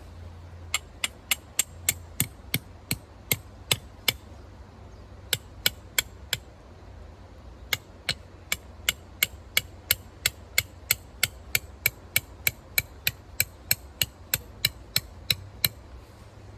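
Hammer driving a metal tent peg: sharp, ringing metallic strikes about three a second, in three runs with short pauses between them.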